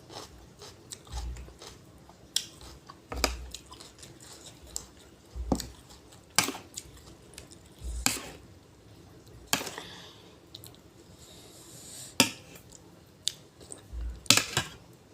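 A person chewing crunchy raw vegetables and lotus runners close to the microphone, with a sharp crunch every second or two and soft low thumps between bites.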